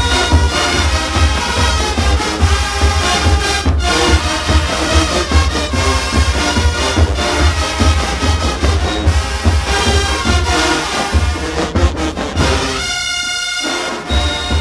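College marching band playing: loud brass over a driving drum beat, with the drums dropping out under a held brass chord near the end.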